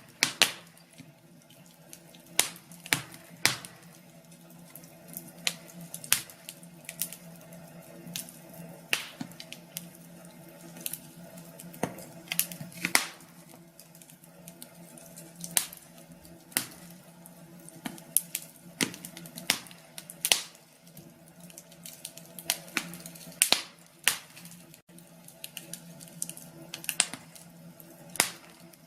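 Wood fire in a fireplace crackling, with irregular sharp pops and snaps, a few of them much louder, over a faint steady low hiss.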